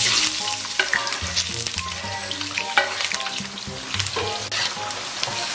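Scallion, ginger and garlic pieces dropped into hot oil in a wok, sizzling loudly with frequent crackling pops as they fry.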